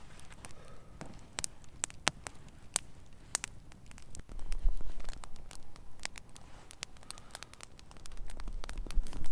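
Campfire of thin twigs crackling, with irregular sharp snaps and pops. A low rumble swells up twice, about halfway through and near the end.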